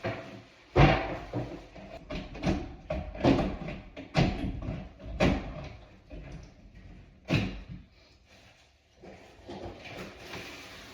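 Irregular series of knocks and clunks, about a dozen over the stretch, the loudest about a second in, with a quieter lull near the end.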